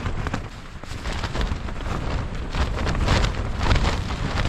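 Gale-force wind buffeting a Nordisk Telemark 2 LW lightweight tent, heard from inside: a heavy low rumble of wind with the fabric flapping and cracking in quick irregular snaps, gusting harder about halfway through.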